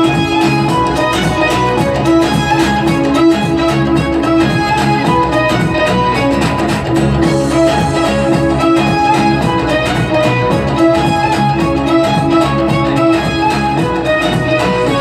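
Violin playing a melody over a guitar and string accompaniment, steady and continuous.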